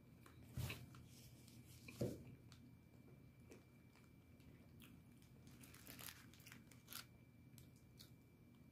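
Faint chewing and crunching of food, with a few soft separate crunches and clicks spread through, over a faint steady high whine.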